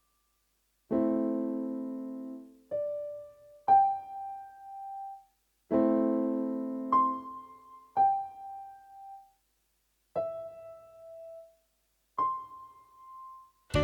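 Slow, sparse solo piano: two full chords, about a second and five seconds in, and single notes in between, each left to ring and die away before the next.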